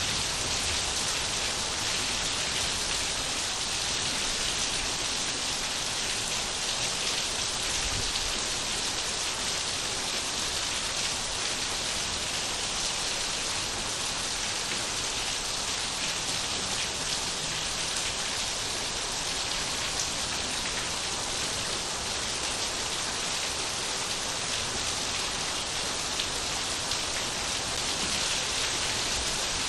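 Steady rain falling on surfaces, an even hiss with individual drops.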